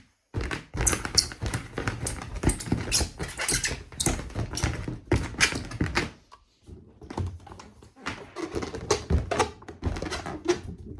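Rubber balloons being handled, rubbed and squeezed: a dense run of squeaks, taps and rubbing, with a short pause about six seconds in.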